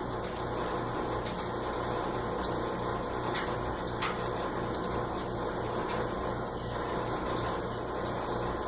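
Steady machine hum and hiss, with two faint clicks a little over three and four seconds in.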